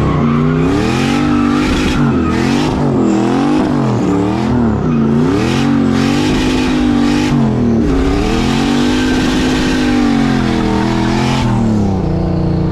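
Turbocharged LS1 V8 in a BMW E46 revving hard up and down in quick swings, about once a second. It holds one longer rise and fall past the middle, then settles to a steadier, lower note near the end.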